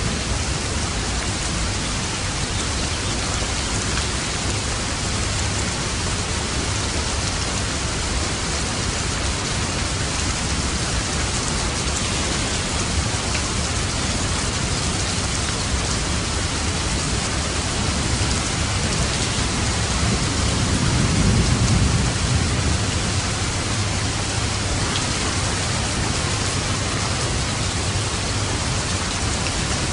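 Steady rain falling. About two-thirds of the way through, a soft low rumble of light thunder swells up for a few seconds and fades back into the rain.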